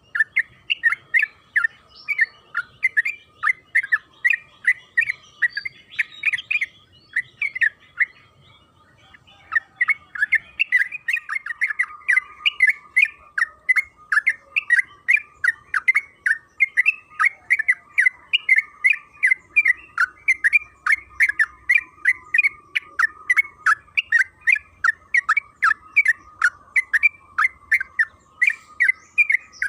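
Bulbul (trucukan) singing a long, fast run of short repeated chattering notes, about three a second, with a brief break about eight seconds in before the run resumes.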